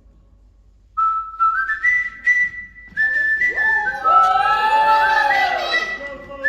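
Audience whistling loudly after about a second of quiet, with rising shrill whistles, then cheering and screaming that join in about three seconds in.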